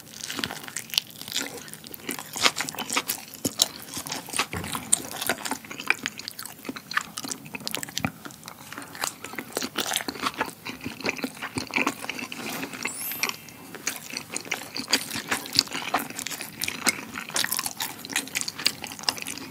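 Close-miked chewing of a chewy rice-paper wrap filled with Buldak spicy stir-fried noodles: a steady stream of small clicks and smacks.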